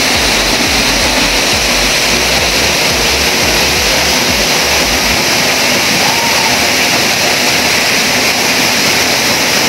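Waterfall rushing: a loud, steady, even wash of falling water, with a low rumble underneath that stops about halfway through.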